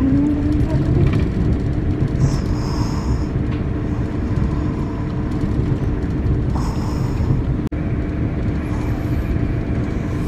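Steady rumble of a moving passenger train heard from inside the carriage, with a constant hum running through it and two brief high hisses.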